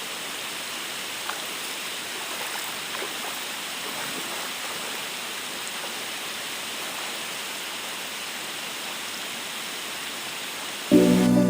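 A waterfall's water rushing steadily. Music cuts in abruptly just before the end.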